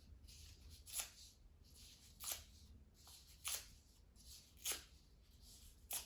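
Strips of brown paper being torn into small pieces by hand: five short rips, about one every second.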